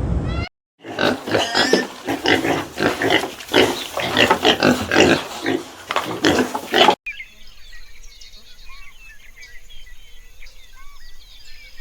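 Pigs grunting and squealing in quick, loud, noisy bursts for about six seconds. The sound cuts off abruptly and gives way to faint, scattered high chirps.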